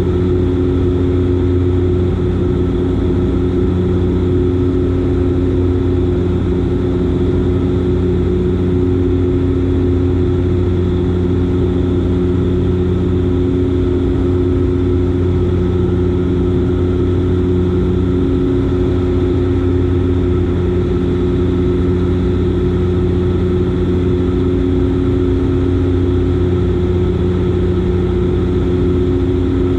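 Dash 8 Q400 turboprop engines and propellers droning steadily: a low hum with several held tones, one of them swelling and fading every few seconds.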